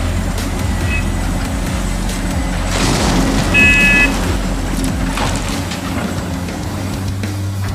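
Truck engine sound running steadily with a low drone, and a short high-pitched horn toot about three and a half seconds in.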